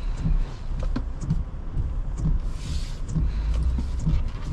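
Steady low road and tyre rumble inside a Toyota Tundra pickup's cabin, driving on a wet road, with scattered light taps from rain. A brief hiss comes about two and a half seconds in.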